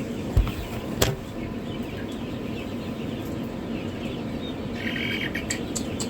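Newly hatched chicks peeping continuously, with two sharp knocks about half a second and a second in and a louder run of peeps near the end.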